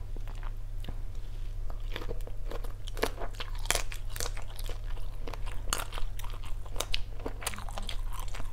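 Close-miked eating of a grilled salt-and-chili shrimp: biting and chewing, heard as a string of irregular, crisp mouth clicks and crunches.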